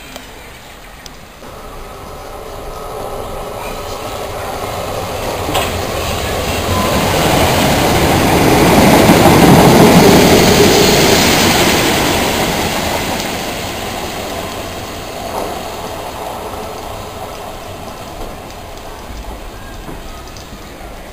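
Southern electric multiple-unit passenger train passing through at speed. Its rumble and wheel clatter build up from about two seconds in, peak around halfway, then fade away.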